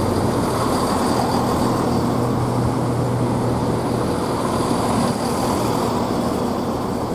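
Diesel multiple unit engine idling with a steady low hum.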